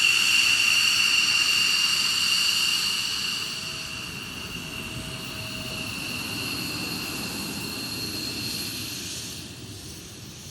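F-16 Fighting Falcon's jet engine running on the ground: a high, steady whine over a rushing roar. It eases off about three seconds in and fades further near the end.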